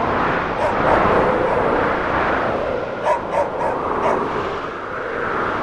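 Snowstorm wind blowing steadily in gusts, with a dog barking in the distance: once early and three quick barks a little past halfway.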